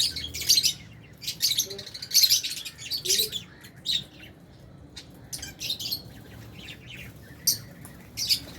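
A flock of lovebirds chattering, with many short, shrill chirps in quick clusters, some overlapping, at feeding time.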